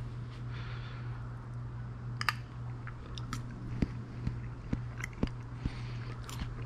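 A person chewing a mouthful of roasted beet and pistachio salad close to the microphone, with irregular small crunches.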